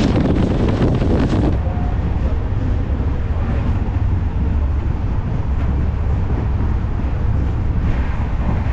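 A moving express passenger train with wind buffeting the microphone at an open coach door. About a second and a half in, this cuts to the train's steadier, lower running rumble heard inside a sleeper coach.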